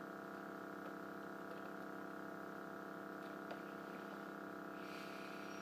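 Faint, steady electrical hum made of many even tones, with a few faint ticks and a brief soft hiss near the end.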